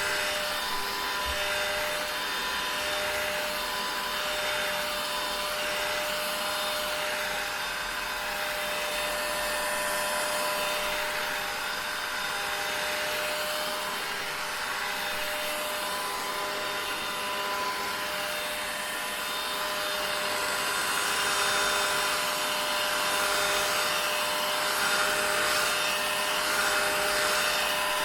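Vacuum cleaner running continuously: a steady rush of air with a constant motor tone. It gets a little louder in the last third.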